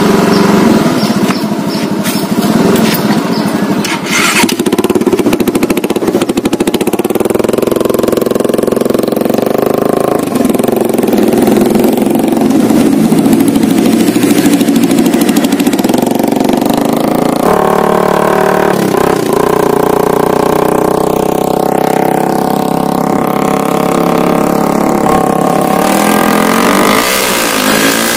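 Motorcycle engine running under way, its note holding steady and then changing with speed. The pitch steps up about 17 seconds in, and the engine revs up briefly near the end.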